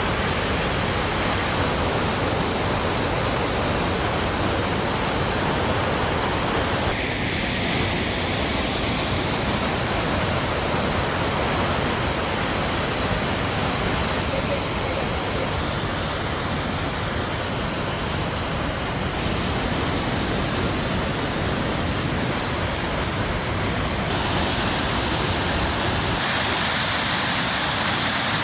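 Steady rush of falling water from a horsetail waterfall about 50 feet high. The sound shifts abruptly in tone a few times.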